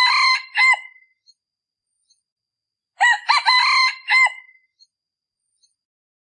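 Male decoy red junglefowl crowing: the end of one short crow right at the start, then one complete crow about three seconds in. This is the call used to lure wild junglefowl cocks.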